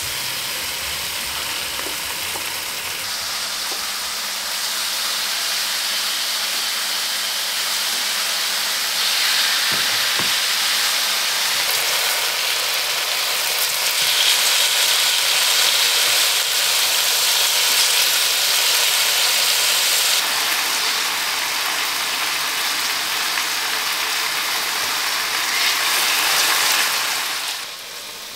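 Chicken thighs sizzling in hot oil in a frying pan as they are seared to brown, a steady dense hiss that grows louder through the middle and drops away near the end.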